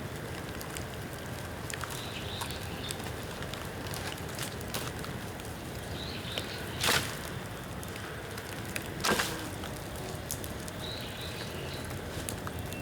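Bamboo bonfire crackling steadily with many small snaps. Two loud sharp pops come about two seconds apart, just past the middle: hollow bamboo segments bursting in the heat.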